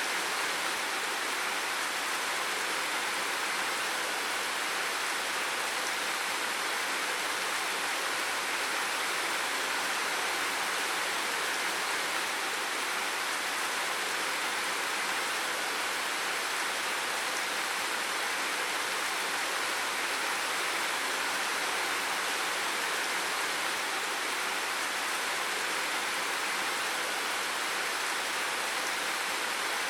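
Steady, unbroken rushing of water, an even hiss that does not change.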